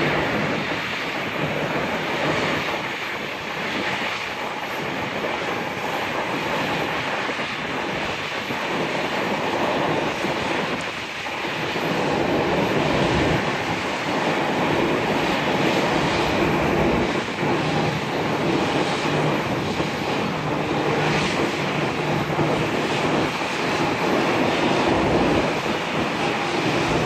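Boeing 787-9 airliner's Rolls-Royce Trent 1000 turbofan engines running as it taxis, a steady continuous jet engine noise.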